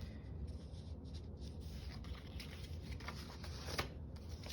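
Soft rubbing and rustling of paper being handled and slid across a work surface, with a few short light strokes near the end, over a low steady hum.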